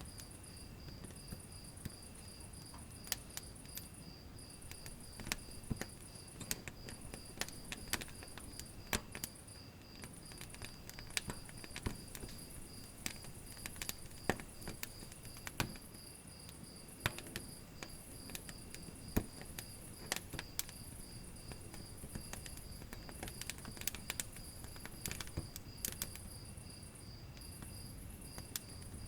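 Wood fire crackling, with irregular sharp pops scattered throughout, over a steady high-pitched chirping trill that pulses evenly in the background.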